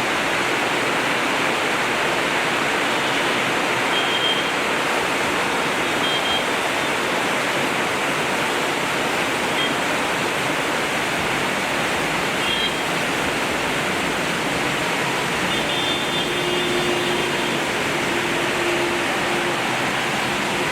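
Torrential monsoon rain pouring down, a loud steady hiss that does not let up.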